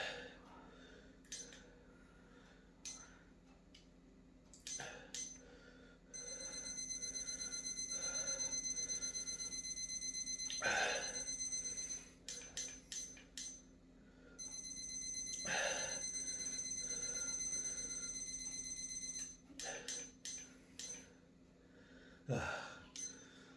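Electronic timer alarm ringing in two bouts of several seconds, a fast-pulsing high tone, with short clicks in between and a few heavy breaths.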